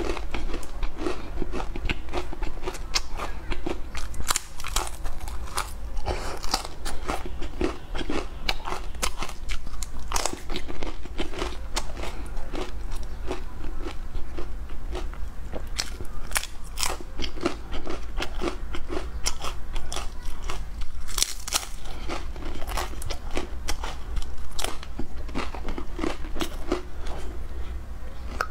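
Close crunching and chewing of dry scallion soda crackers, with repeated crisp bites and crackles all through.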